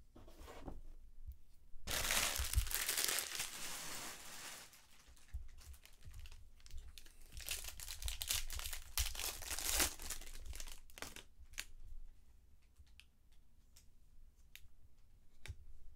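A trading card pack's foil wrapper torn open and crinkled, in two loud rustling stretches, followed by faint scattered clicks of cards being handled.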